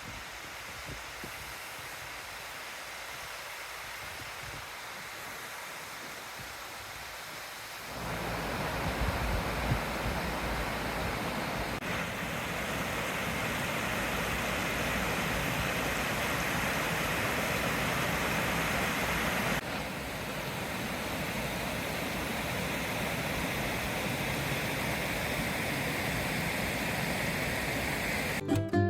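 Rushing floodwater of a swollen, overflowing river: a steady rush that grows louder and fuller about eight seconds in. Strummed acoustic guitar music comes in at the very end.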